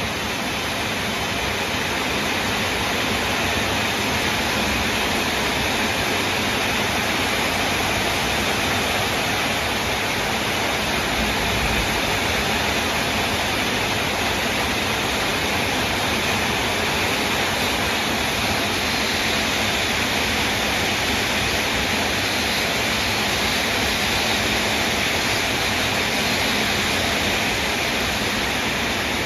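Very heavy rain pouring down steadily, a dense even hiss with no letup.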